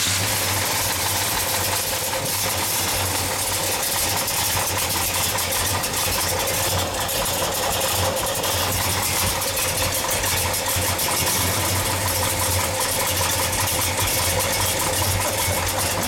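A 1968 Dodge Coronet R/T's 440 Magnum big-block V8 idling steadily just after start-up, breathing through Hooker headers and running a bigger-than-stock cam.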